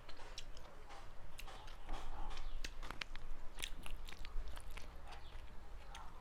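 Close-miked eating: chewing and mouth smacks from a meal of mutton curry and rice, with many irregular sharp clicks.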